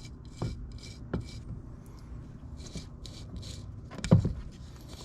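Bearing from a Kawasaki Brute Force 650 front differential, spun by hand in short flicks, each spin a brief whir, with a sharp knock about four seconds in. It sounds a wee bit on the rougher side but not bad: some wear in the bearing.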